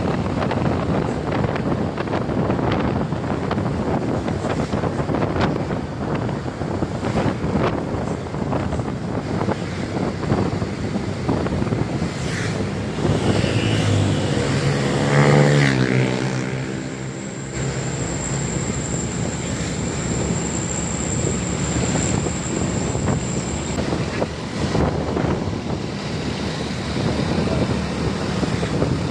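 Road traffic noise with wind buffeting the microphone. About halfway through, a heavy truck's diesel engine passes close and grows loud, then fades, followed by a thin high whine lasting several seconds.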